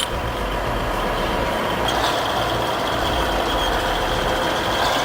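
A heavy vehicle's engine running steadily, with a faint high whine coming in about two seconds in.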